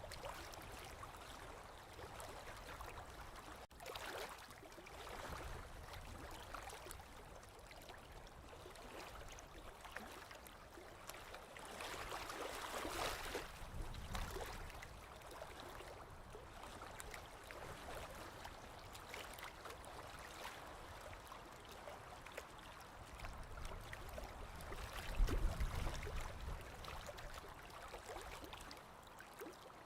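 Small waves lapping on a lake shore, a continuous soft wash that swells and ebbs. A louder wash comes about twelve seconds in, and a brief low thud about twenty-five seconds in.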